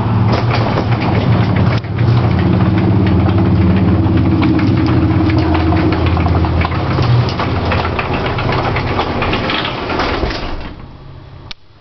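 Garage door closing under an electric opener: the opener's motor hums steadily while the door rattles and clatters as it shakes on the way down, despite new springs and cables. The motor stops near the end, followed by a single sharp click.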